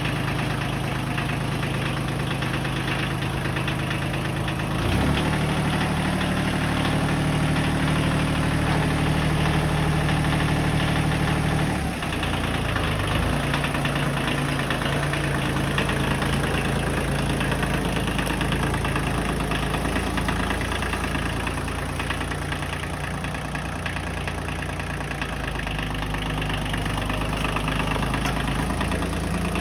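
A Massey Ferguson 4607M tractor's diesel engine running steadily. It speeds up about five seconds in and settles back to a lower speed about seven seconds later.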